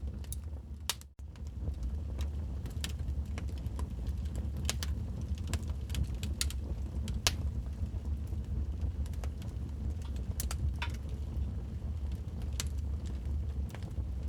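Wood fire crackling in a fireplace: irregular sharp pops and snaps over a steady low rumble, with a brief dropout about a second in.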